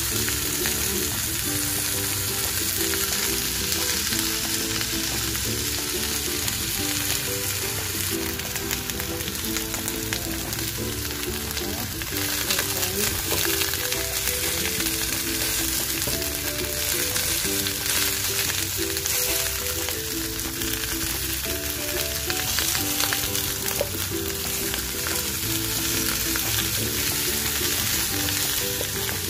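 Beef soup bones searing in a hot pot, with a steady sizzle. There are occasional light clicks as the pieces are turned with tongs.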